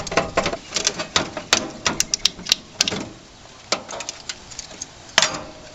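Rapid metallic clicks and knocks for about three seconds, then a few single knocks, the loudest about five seconds in. The sound comes from the old gas barbecue burner and its igniter clips being worked and broken loose from the grill body.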